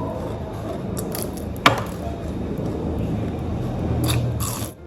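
A person eating fast: crunching and chewing a samosa breakfast, with one sharp click about a second and a half in and a few crisp crunches near the end.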